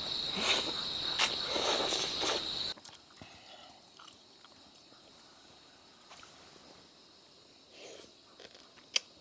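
Outdoor insect chorus: a steady, high-pitched drone with a few short knocks over it. It cuts off abruptly about three seconds in, leaving near quiet with faint scattered clicks and one sharp click near the end.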